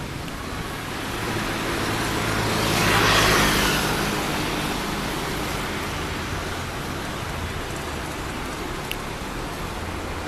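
Road traffic noise, with one vehicle passing by, loudest about three seconds in, over a steady low hum.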